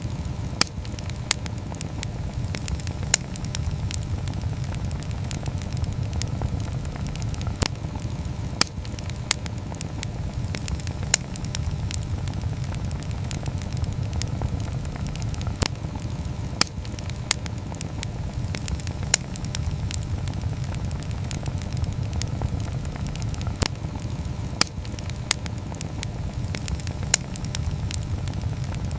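Wood campfire burning, with a steady low rumble and irregular sharp crackles and pops, a loud pop every second or two.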